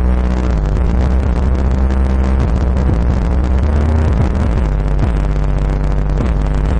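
Music played at high volume through two Hinor Cruzader 12-inch subwoofers in a ported enclosure, with deep, steady bass notes far louder than the rest of the song.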